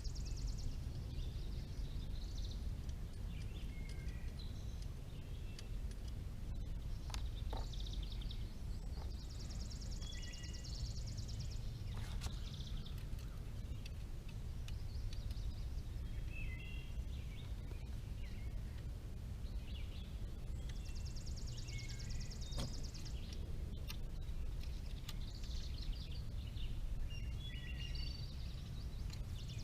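Outdoor background of birds chirping over a steady low rumble, with a high buzzy trill that comes back about every ten seconds. A few faint knocks are heard, around seven, twelve and twenty-three seconds in.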